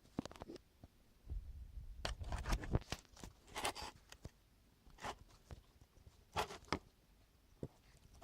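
Irregular rustling, scraping and clicking from hands handling materials at close range, in a series of short scattered bursts with a brief low rumble early on.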